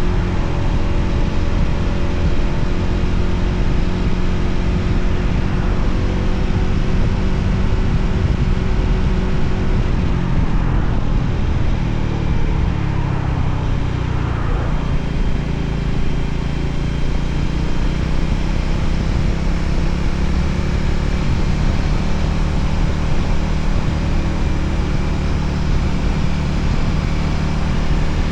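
Voge 300ACX motorcycle engine running under way, with wind rushing over the microphone. The engine note shifts and drops about halfway through, then steadies again.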